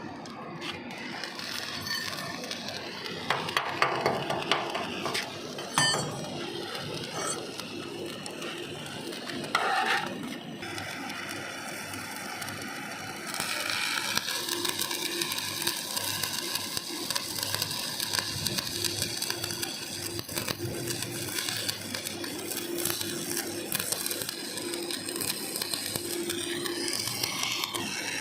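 Electric arc welding on a steel deck joint: the arc crackles and sizzles continuously, with sporadic clicks in the first half and a thicker, steadier crackle from about halfway through.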